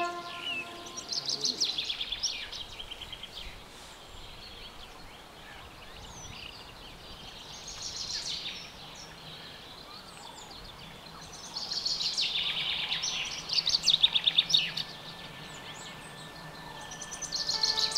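A songbird singing rapid trilled phrases, each a couple of seconds long, repeated several times with quiet stretches between; the loudest phrase comes about fourteen seconds in.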